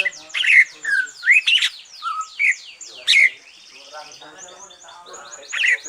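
Green leafbird (cucak ijo) singing a loud, varied song of sharp whistled notes that sweep up and down, mixed with quick runs of short falling chips. It is a bird newly through its moult, singing freely.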